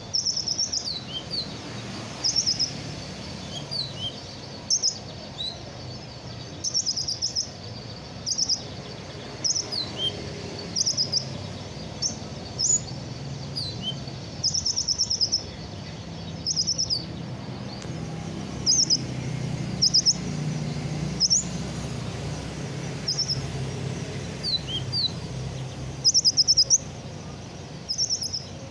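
Kolibri ninja sunbird singing: short bursts of fast, high, thin chirps and twitters, with some quick falling notes, repeated every second or two over a low steady background rumble.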